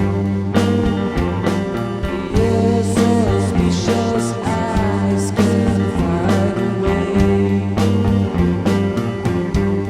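Psychedelic rock band playing: a steady drum beat under bass and electric guitar, with a gliding melodic line a few seconds in.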